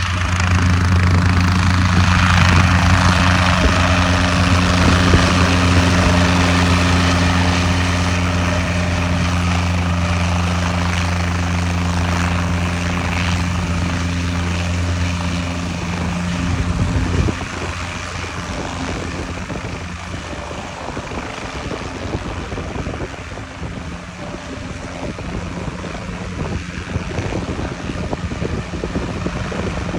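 Guimbal Cabri G2 helicopter's four-cylinder Lycoming piston engine and rotors running with a steady low drone. About seventeen seconds in, the steady hum drops away, leaving a rougher rushing noise.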